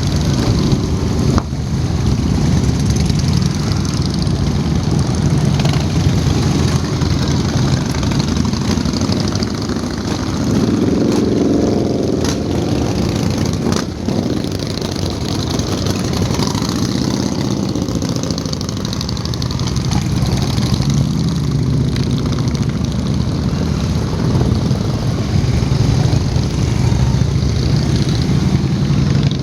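Motorcycle engines running steadily as a group of bikes rides, with the sound swelling a couple of times as bikes pass close.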